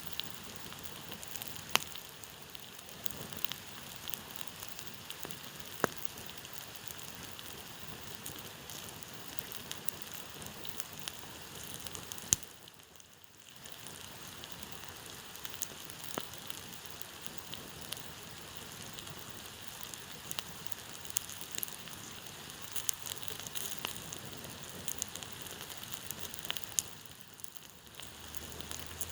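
Wood campfire crackling, with a few sharp loud pops, over a steady rushing hiss of stream water.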